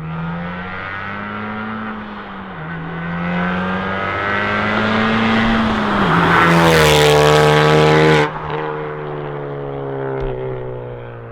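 Honda Civic Type R's turbocharged 2.0-litre four-cylinder, straight through a catless downpipe and an open valved Remus cat-back exhaust, accelerating hard. The pitch climbs, dips at a gear change about two and a half seconds in, and climbs again. The car then passes close at its loudest, the note cuts off suddenly about eight seconds in, and the sound fades away.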